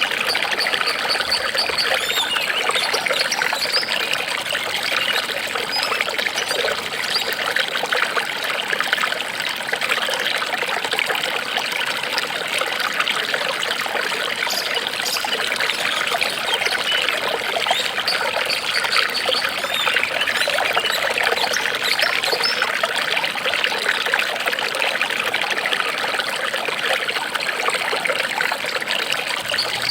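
Water trickling steadily, a continuous dense patter of small splashes and bubbling.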